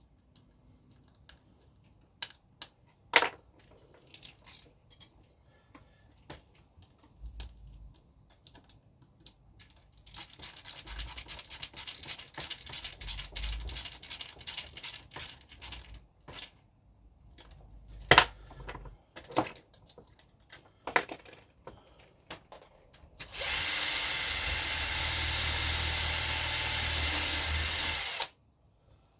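Small parts being handled and clicked together, with a fast run of even clicks partway through. Near the end a small handheld power tool runs steadily for about five seconds, the loudest sound, and cuts off suddenly.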